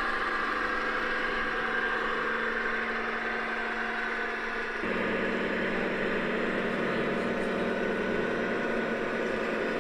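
Model diesel locomotive sound from the ESU LokSound XL 5 decoder in an LGB V 200 garden-scale locomotive, a steady engine hum as the locomotive runs. About five seconds in, the engine note drops a little and grows fuller.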